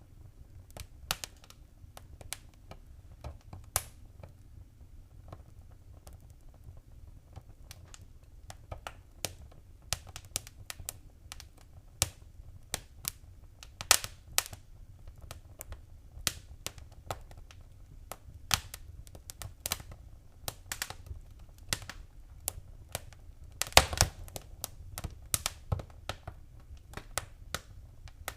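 Wood fire crackling in a fireplace: irregular sharp pops and snaps over a low steady rumble of the flames, with a quick cluster of louder pops a little before the end.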